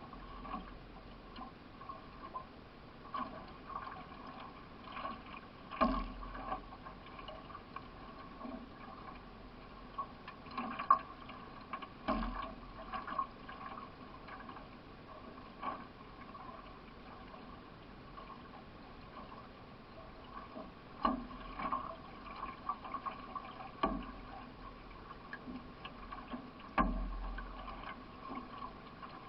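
Water splashing and gurgling around a racing canoe as it is paddled, with a few sharp knocks.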